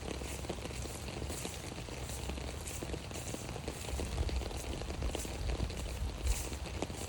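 Rain falling steadily on an umbrella, a dense run of small drop ticks over an even rain hiss.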